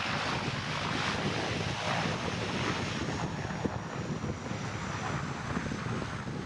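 Wind buffeting the microphone over the distant noise of an aircraft, with a faint high whine that comes in about halfway through and slowly falls in pitch.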